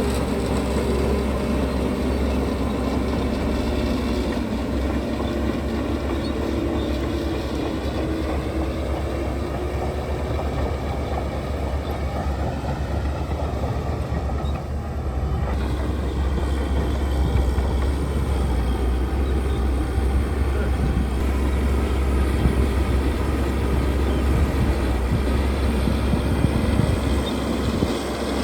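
Heavy earthmoving machinery's diesel engine running with a deep, steady rumble, growing a little louder about halfway through.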